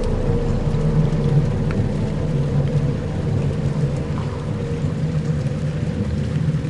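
Dark ambient soundscape: a steady low rumble like distant thunder under an even hiss of rain.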